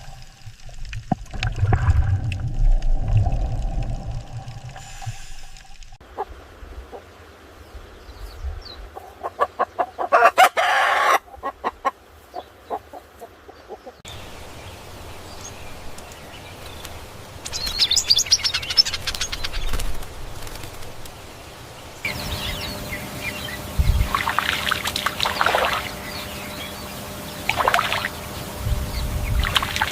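Farmyard animal sounds in several short recordings cut one after another, changing abruptly about every eight seconds, with chicken calls among them.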